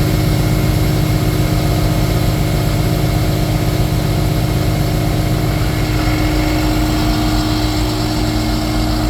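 Cummins diesel engine of a Freightliner M2 truck idling steadily, with a constant hum over the engine drone.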